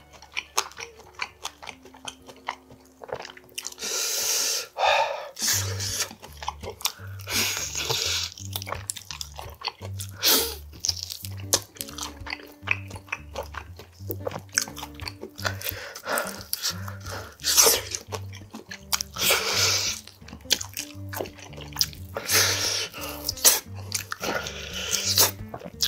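Close-miked chewing and biting of spicy grilled pork back ribs eaten by hand, in loud bursts every few seconds, over background music with a repeating low bass line.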